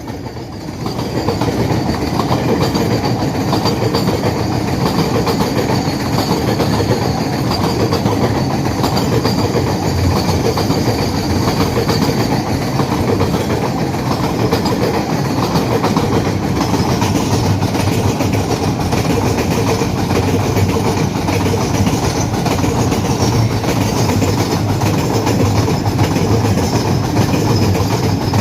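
Freight train wagons rolling past, their wheels rumbling steadily with a clickety-clack over the rail joints.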